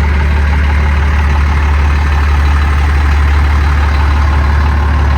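12-valve Cummins inline-six turbo diesel of a 1992 Dodge Ram D250 idling, a low, steady drone.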